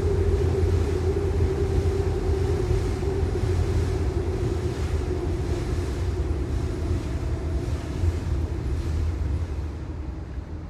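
Subway train passing: a heavy low rumble with a steady hum above it, fading near the end.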